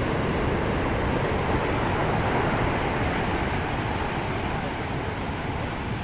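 Steady rush of heavy surf breaking on the beach, with wind buffeting the microphone.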